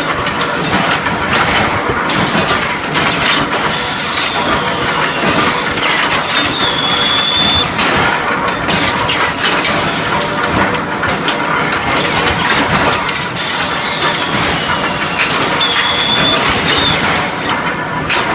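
Automatic-feed induction furnace heating round steel bars for forging, running steadily with a constant machine hum and clatter and scattered sharp clanks. Twice, about ten seconds apart, a high falling squeal settles into a brief steady tone, one turn of the feed cycle.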